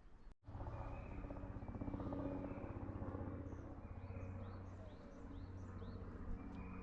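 A bird chirping in a quick run of short falling notes over a steady low hum, which starts after a cut about half a second in.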